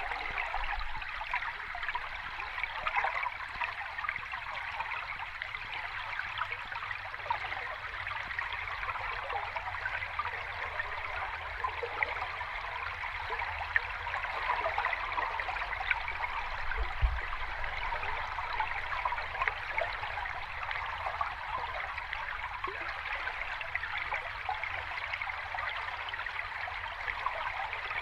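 Sea water washing gently at the shore, an even, steady wash with fine crackling detail and no distinct wave surges. A brief low thump about seventeen seconds in.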